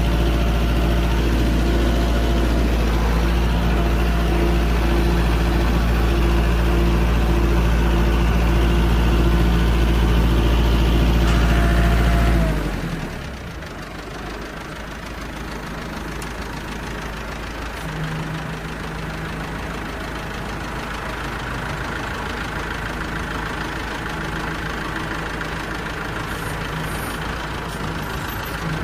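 Kubota 2.4 L diesel tractor engine running steadily. About twelve seconds in it drops sharply in loudness with a falling pitch, then a quieter steady engine sound carries on.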